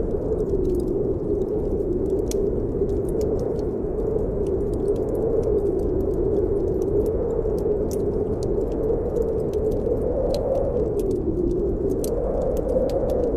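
Snowstorm wind blowing steadily, its low whistle slowly rising and falling in pitch, with the irregular crackles and pops of a wood fire in a fireplace throughout.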